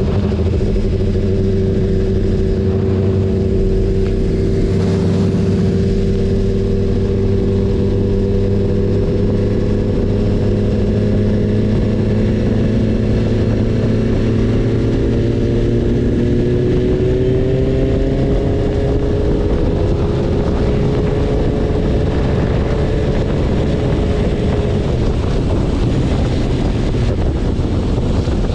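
BMW S1000RR's inline-four engine running at steady revs, its pitch creeping slowly upward about halfway through as the bike gently picks up speed.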